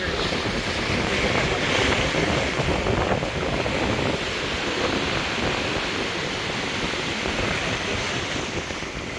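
Ocean surf washing, with wind buffeting the microphone. The rush swells a second or two in, then slowly eases toward the end.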